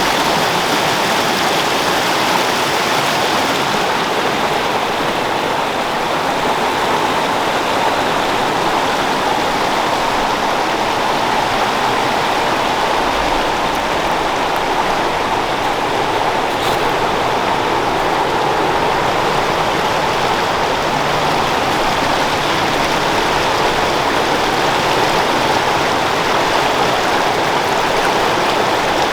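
Creek flowing: a steady rush of running water.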